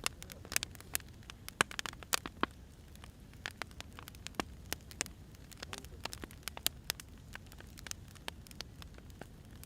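Firewood burning, crackling with irregular sharp pops and snaps over a low steady rumble.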